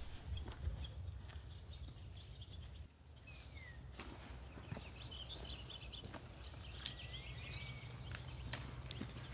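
Forest ambience: small birds chirping and calling, with a short falling whistle a few seconds in and a longer gliding whistle later, over a steady low rumble. In the first seconds a few soft taps of footsteps on the trail.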